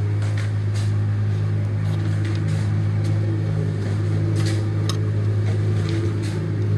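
A steady low hum from a running machine fills the background, with scattered short metallic clicks and taps of a wrench being worked on an oily nut on the engine.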